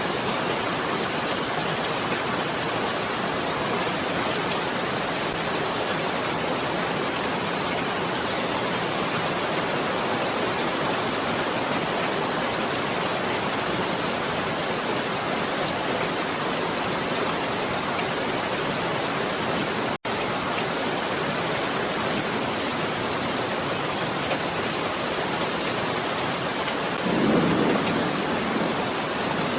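Steady rain, an even hiss of falling drops, with a short low rumble of thunder near the end. The sound cuts out for a split second about two-thirds of the way through.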